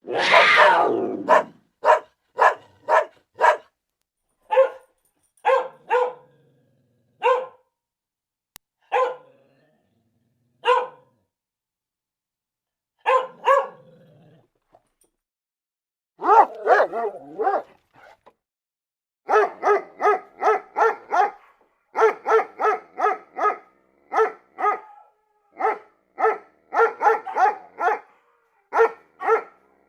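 A dog barking: single barks spaced about a second or more apart, turning into quick runs of barks, several a second, about two-thirds of the way in. A loud, noisy burst comes first, in the opening second.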